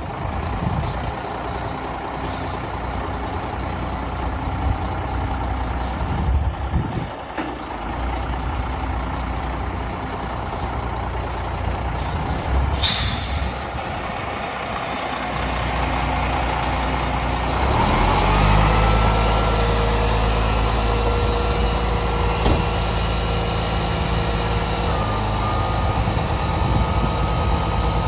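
Sterling L9500 crane truck's diesel engine running, with a short sharp air hiss about halfway through. About two-thirds of the way in the engine gets louder and a steady high whine starts and holds.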